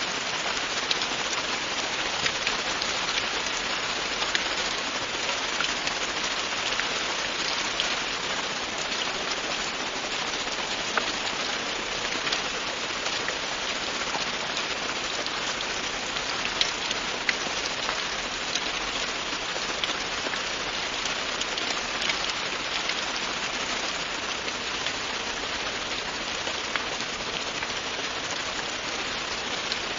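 Steady, continuous rain falling on a surface, with many individual drop ticks over an even hiss.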